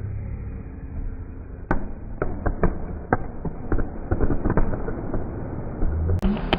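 Fireworks going off: a rapid, irregular string of sharp pops and cracks starting a couple of seconds in.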